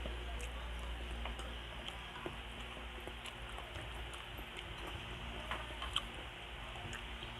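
Close-miked chewing of a mouthful of fried fish and rice, with small wet mouth clicks and smacks scattered through, over a faint steady low hum.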